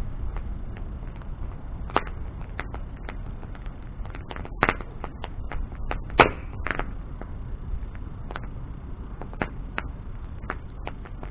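Wood bonfire burning: a steady low rumble of flame with irregular sharp crackles and pops of burning wood, the loudest pop about six seconds in.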